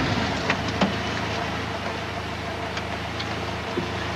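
Ford Escort hatchback's engine idling steadily at standstill, with a few light clicks: two close together about a second in and another near the end.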